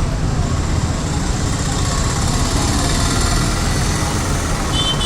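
Steady rumble of road traffic and running engines. Near the end a rapid run of short, high beeps begins.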